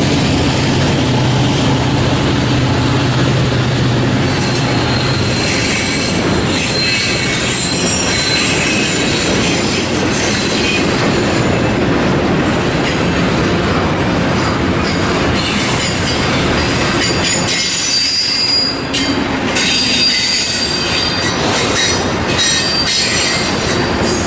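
Freight train rolling past at close range. A low engine drone fades after the first few seconds, and the steel wheels then squeal with high, wavering tones that come and go as the cars go by.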